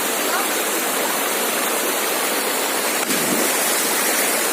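Waterfall rushing steadily, a continuous hiss of falling water.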